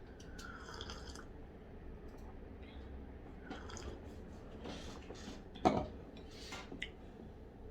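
Tableware being handled during a meal: scattered light clinks and taps of dishes and cutlery, with one sharp knock a little past halfway.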